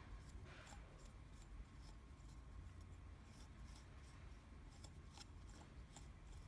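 Faint, scattered light clicks of small tool parts being handled, over a low steady room hum.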